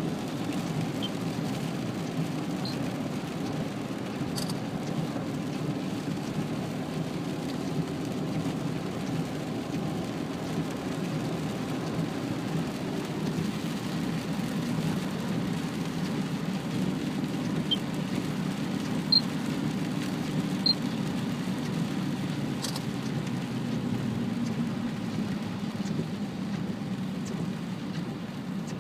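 Steady rain falling, over a constant low rumble, with a few faint isolated ticks.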